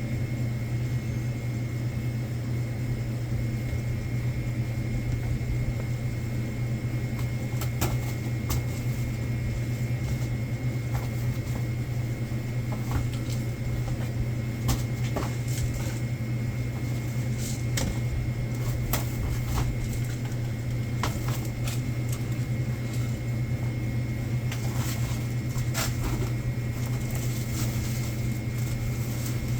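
Steady low machine hum with a faint high whine above it, as of store coolers or ventilation, and scattered light clicks and knocks of goods being handled while a convenience-store delivery is sorted.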